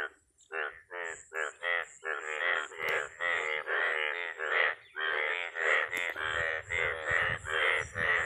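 Frogs croaking in a chorus: short rasping calls repeated about two to three times a second, overlapping with hardly a pause. A faint low rumble joins in during the last couple of seconds.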